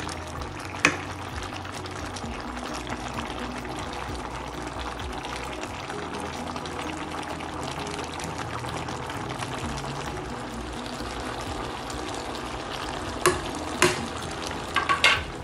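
Water boiling with tripe in a steel pot, a steady bubbling hiss. A wooden spoon stirring the pot knocks against it once about a second in and several times near the end, and background music plays underneath.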